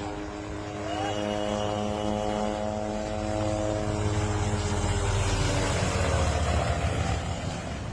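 Helicopter running: a steady pitched engine tone over a low rumble that grows louder in the middle and eases off near the end.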